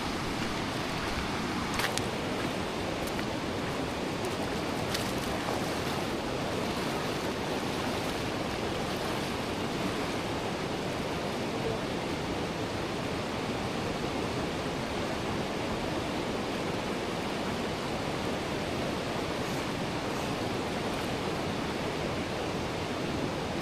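River water rushing steadily in a strong current, with a couple of faint knocks or splashes.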